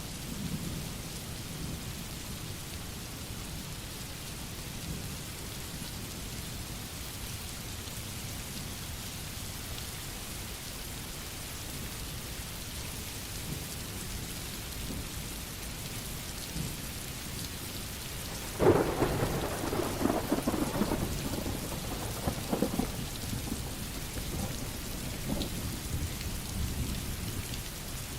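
Steady rain hissing, with a sudden loud thunderclap about two-thirds of the way in that rolls on as uneven rumbling for several seconds.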